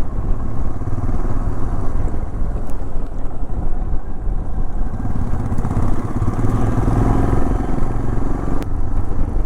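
Motorcycle engine running steadily while riding, heard as a continuous low rumble.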